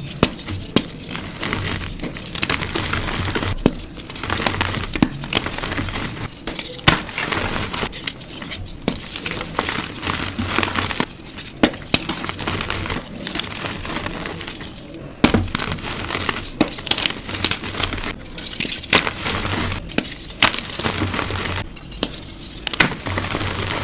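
Blocks of gym chalk being crushed by hand: a steady, dry crunching and crumbling with many sharp cracks at irregular intervals as the chalk breaks apart.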